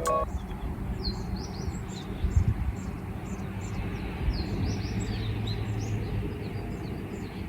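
Small birds chirping, many short high calls repeated throughout, over a steady low outdoor background rumble.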